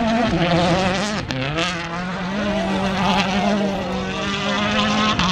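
Rally car engine at high revs, shifting up twice in the first second and a half with the pitch dropping at each shift, then climbing and holding steady under full throttle.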